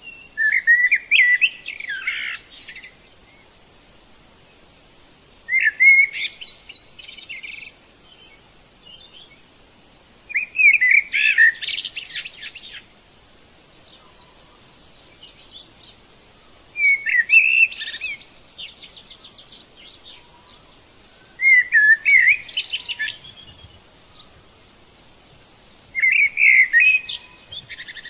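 A songbird singing the same short song phrase six times, about every five seconds. Each phrase lasts about two seconds: a few warbled notes followed by a fast run of notes. Fainter chirps from other birds can be heard between the phrases.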